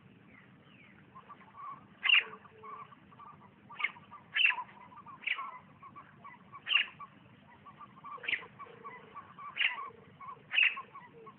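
Birds calling: about eight short, sharp calls starting about two seconds in and repeating roughly once a second, over fainter quick chirps.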